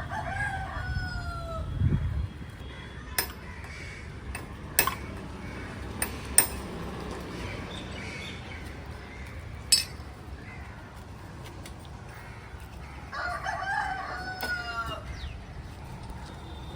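A rooster crowing twice, each crow a falling call of about a second and a half, one at the start and one near the end. In between come several sharp clinks or knocks.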